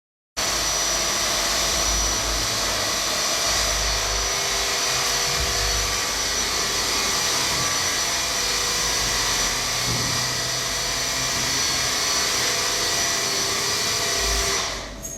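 A motor-driven tool running steadily: a dense hiss with several high, fixed whines. It starts abruptly just after the beginning and cuts off near the end.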